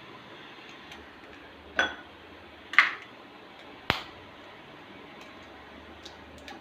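Eggs being cracked against the rim of a bowl: three sharp taps about a second apart, the middle one the loudest.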